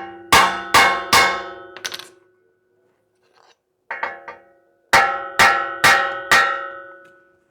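Hammer blows on the steel of a Honda CR-V's front ball joint and knuckle, each strike ringing out: three quick strikes, a pause with a couple of lighter taps, then four more strikes. This is the hammer method of shocking a tapered ball joint stud loose, and the joint does not let go.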